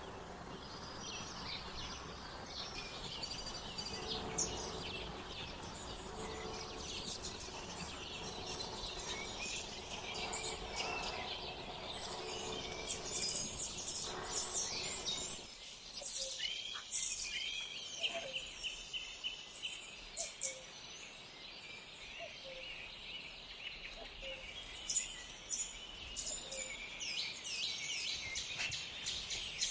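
Many small wild birds chirping and singing, with quick high chirps and a short trill. A low background rumble with a faint steady hum underlies them until it cuts off abruptly about halfway through.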